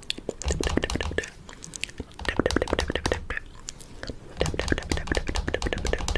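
Close-miked fingernail tapping and clicking, very rapid, in three flurries of crisp clicks with a dull thump beneath them.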